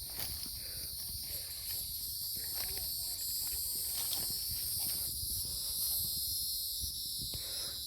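A steady, high-pitched chorus of insects droning, with footsteps and low rumble from walking along the trail.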